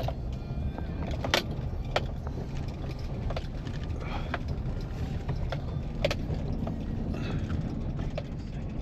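A vehicle engine running steadily as a low rumble, with a few sharp clicks and knocks scattered through it.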